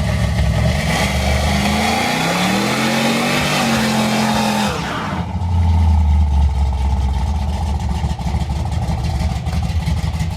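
A 5.7 Hemi V8 truck engine revs. The pitch climbs over about two seconds, holds, then drops back about five seconds in to a steady, deep idle.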